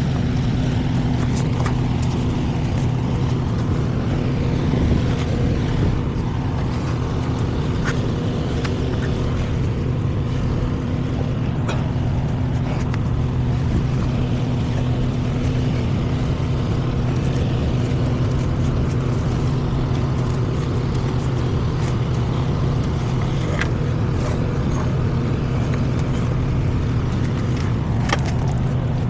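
Semi-truck engine running steadily, with a constant low hum and rushing noise and a few faint clicks.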